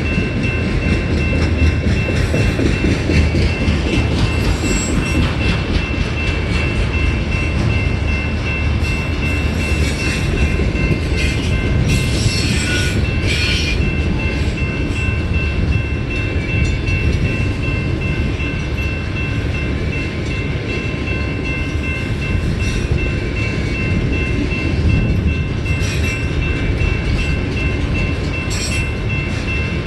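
Freight cars rolling past on the rails: a steady low rumble of wheels on track with a thin, steady high whine over it, and a few short bursts of clanking about ten to fourteen seconds in and again near the end.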